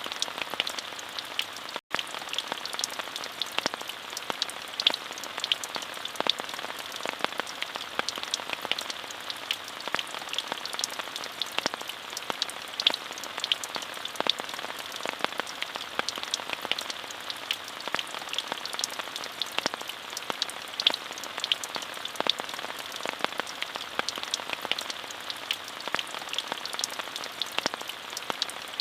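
Steady rain falling: a dense, even hiss with many single drops ticking on a surface. The sound cuts out for an instant about two seconds in.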